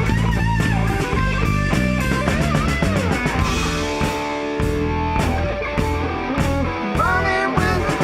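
Rock band playing live with no vocals. Guitar lines run over bass and a drum kit.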